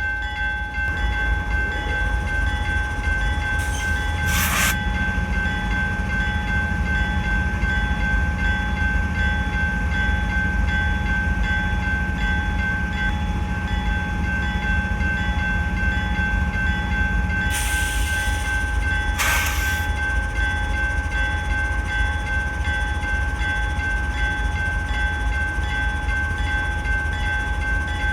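Steady low rumble of a moving freight train, with a thin high-pitched whine throughout. A lower hum joins a few seconds in and stops about seventeen seconds in. There are brief sharp knocks near the start and again around eighteen to nineteen seconds in.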